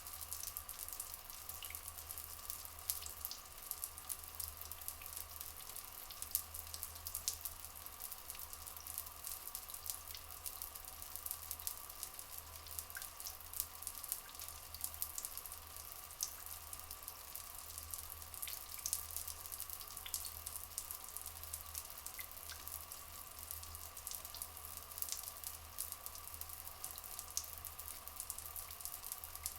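Rainforest water ambience: a steady patter of dripping and trickling water with fine crackling detail, over a steady background tone.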